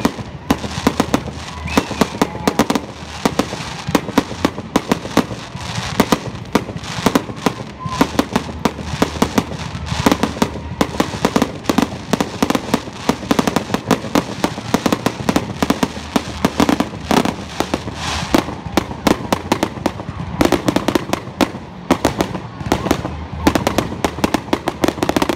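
A dense, rapid barrage of firework bangs and crackles, several reports a second, the closing barrage of the display; it breaks off abruptly at the very end.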